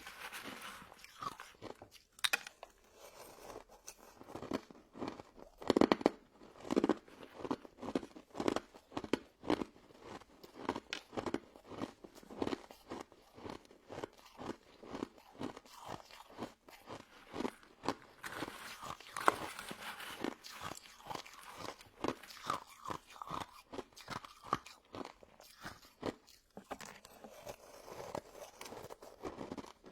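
A person biting and chewing crunchy frozen crystal snow ice dessert, a steady run of crisp crunches about one or two a second.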